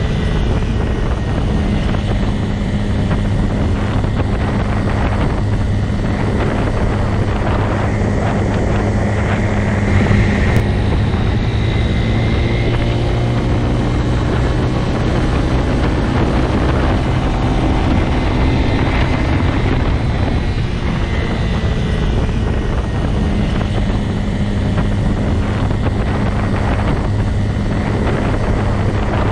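Motorcycle engine running at a steady, unchanging pitch over a constant rushing noise.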